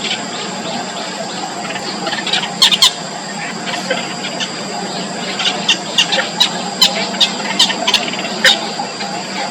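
Small birds chirping at a nest: short, sharp, high chirps, with two loud ones about three seconds in and then a quick run of them, two or three a second, in the second half. A steady high whine and a low hum run underneath.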